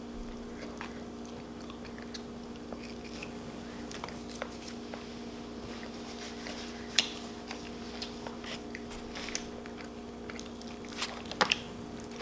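Close-miked chewing and biting of food, with scattered sharp crunchy clicks, the loudest about seven seconds in and again near the end, over a steady low hum.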